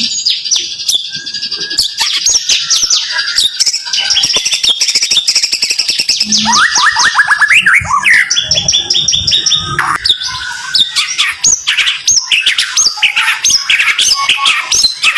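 White-rumped shama (murai batu) singing a dense, fast run of quickly repeated sweeping notes and sharp clicks in tight series: the close-packed 'tembakan rapat' song.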